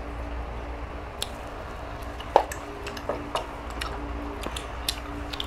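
Eating at the table: wet chewing and squishing of boiled chicken, with scattered small clicks and one sharper knock about two and a half seconds in.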